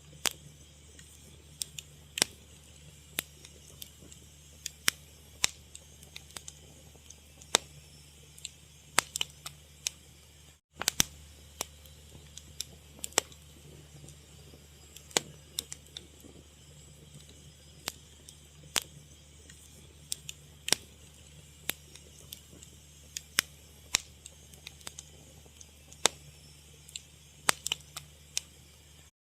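Wood fire crackling: irregular sharp pops and snaps over a quiet, steady low hum. The sound cuts out for a split second about eleven seconds in.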